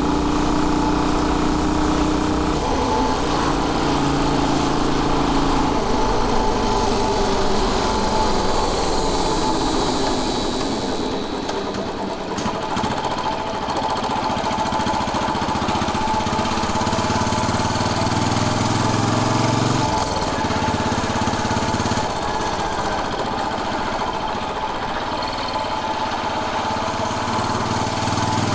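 Royal Enfield Bullet 500's single-cylinder engine running on the move, its pitch rising and falling with the throttle and easing off for a while in the middle.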